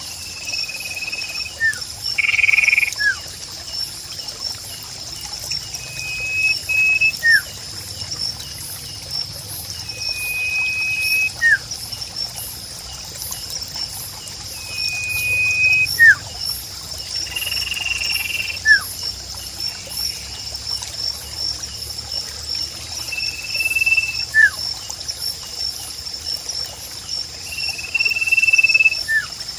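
Nature soundscape: insects trill steadily, water trickles, and a call repeats about every four to five seconds, each a short level whistled note followed by a quick falling note.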